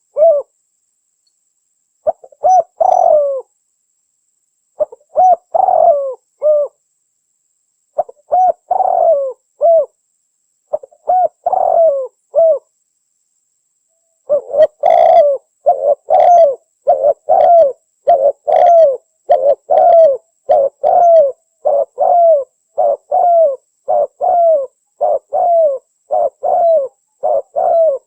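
Spotted dove (tekukur) cooing in repeated short phrases. At first the phrases come about every three seconds; from about halfway through they follow one another with hardly a pause.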